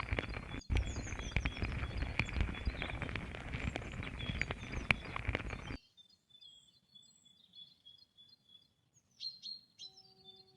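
Outdoor ambience: a steady hiss with scattered clicks and small birds chirping. About six seconds in it cuts off suddenly to near silence, leaving only faint chirps.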